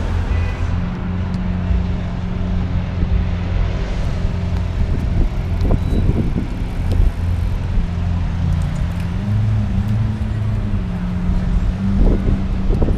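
A car engine running steadily with a low, even hum that shifts slightly in pitch about two-thirds of the way through, amid street traffic noise.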